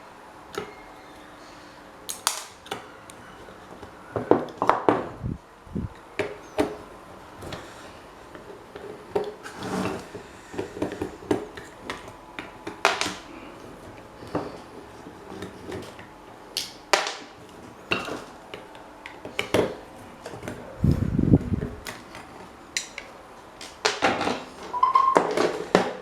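Irregular clinks, taps and knocks of hand tools and metal fan parts being handled on a workbench, with a brief low thud about three quarters of the way through.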